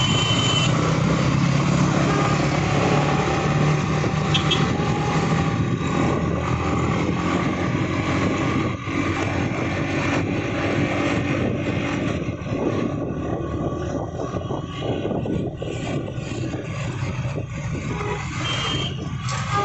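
A motorcycle engine running while riding in road traffic, with steady engine and road noise throughout. There are short high beeps right at the start, about four seconds in, and near the end.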